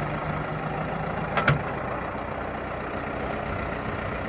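Valmet 705 tractor's diesel engine running steadily under load as its wheels spin on ice, with one sharp knock about one and a half seconds in.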